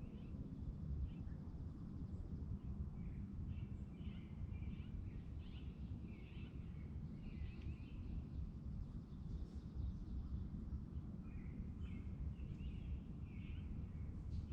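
Outdoor lakeside ambience: a steady low rumble, with small birds chirping in short, repeated calls throughout.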